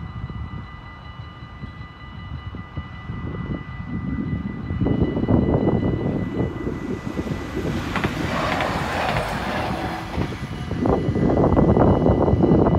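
A train passing over a level crossing. At first the crossing's warning signal sounds as a steady tone. About five seconds in, the train's rumble and wheel noise grows loud and covers it, with a brief hiss around eight seconds, and it is loudest near the end.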